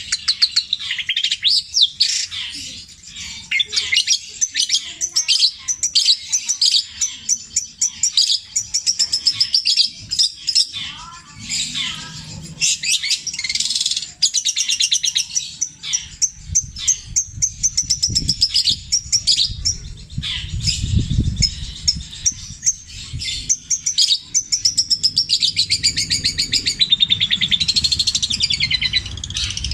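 Long-tailed shrike (cendet) singing a fast, almost unbroken stream of chirps, trills and harsh notes, its song stuffed with mimicked calls of other birds. A low rumble runs under it in the second half.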